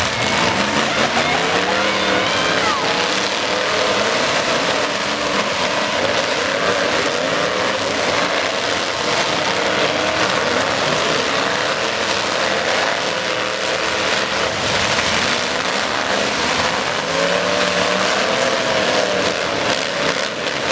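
Several demolition derby trucks' engines revving over one another, rising and falling in pitch, loud and continuous.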